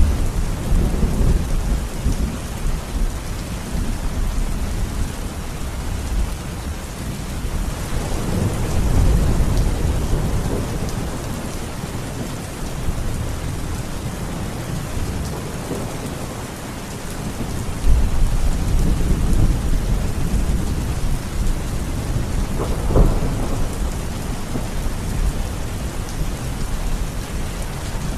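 Steady heavy rain hissing in a thunderstorm, with low rolling thunder that swells and fades several times. About two-thirds of the way in, a sudden louder clap of thunder starts a long rumble.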